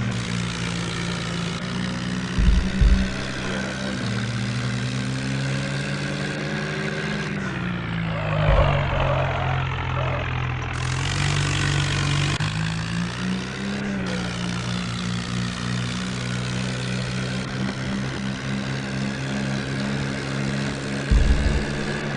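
Vehicle engine running steadily under load, its pitch rising and falling slowly as the vehicle drifts. A burst of rushing noise about eight seconds in, and a few low thumps.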